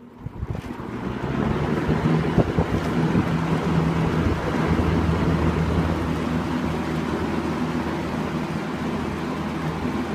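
A 1980 Lakewood P-223 20-inch box fan running on high. Its blades come up to speed over about the first second and a half, then it gives a steady rush of moving air over a low motor hum.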